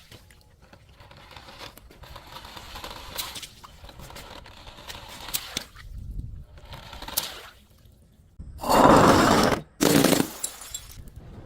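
Something being crushed: faint crackling with scattered clicks, then a loud crunch lasting over a second about eight and a half seconds in and a shorter one about ten seconds in.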